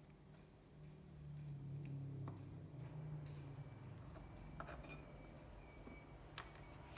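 Faint steady high-pitched insect trill, like a cricket, over a low hum, with a few light clicks.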